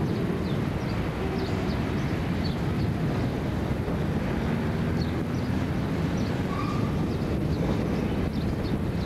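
Coal train's hopper wagons rolling past on a curve: a steady rumble of wheels on rail, with scattered faint high clicks.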